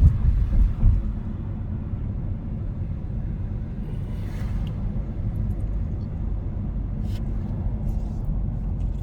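Steady low road rumble of a moving vehicle heard from inside it, a little louder in the first second.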